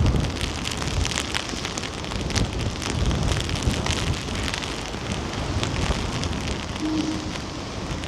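Rain falling and pattering in irregular drops, with gusty wind rumbling on the microphone.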